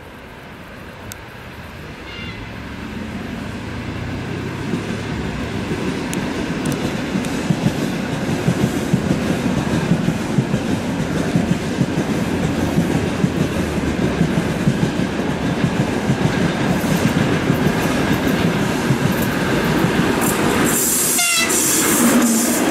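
EP2K electric locomotive hauling a passenger train, approaching and passing close by. The running rumble grows steadily louder, with the wheels clattering over rail joints and station points.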